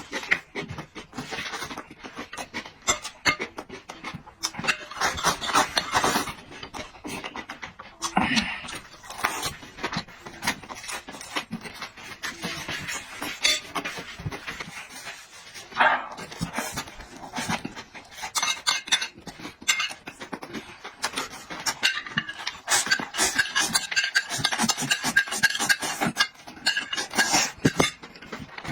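Close, loud mouth sounds of a person eating: wet chewing and lip smacking in quick irregular clicks, the noisy, unrestrained eating of a mukbang.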